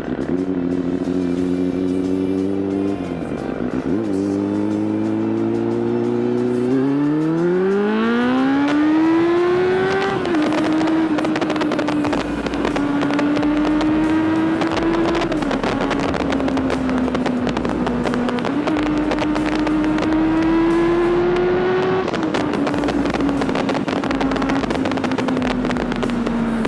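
Motorcycle engine under way, its pitch dipping about three seconds in, then climbing smoothly for several seconds as the bike accelerates. It then holds at steady cruising revs with slow slight rises and falls, and eases down near the end.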